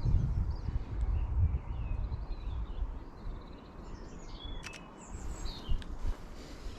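Songbirds singing in short chirping phrases, over a low wind rumble on the microphone that is strongest in the first couple of seconds and then dies down. Two short clicks come a little after the middle.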